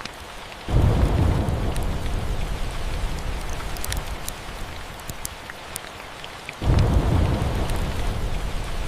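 Steady rain with scattered faint crackles, broken by two claps of thunder: a sudden loud rumble about a second in that slowly dies away, and a second one starting near the end.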